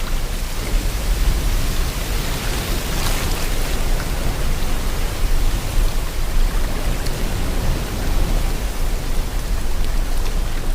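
Sea water and wind: a steady rushing noise over a deep rumble, swelling briefly about three seconds in.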